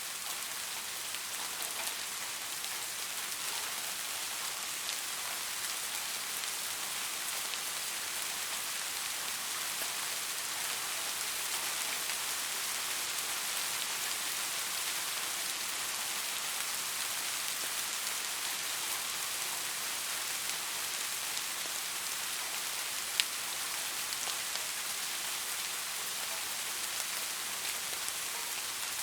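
Steady rain falling on a surface, an even hiss of many drops, with one sharp drip or click about 23 seconds in.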